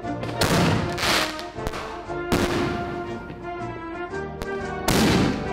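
Aerial firework shells bursting: several loud, sharp bangs over background music.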